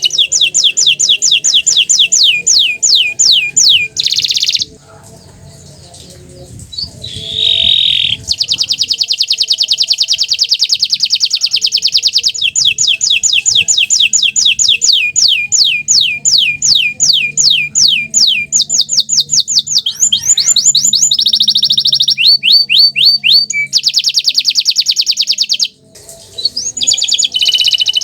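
Green domestic canary singing long rolling trills: fast runs of repeated high notes, each sweeping downward. The song breaks off for a few seconds about five seconds in, and again briefly near the end.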